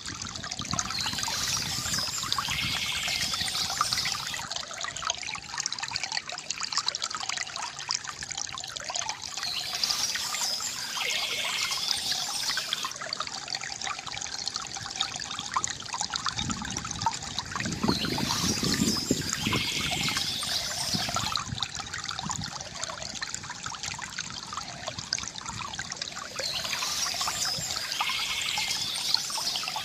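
Small stream trickling and splashing steadily, with bouts of bird song returning about every nine seconds.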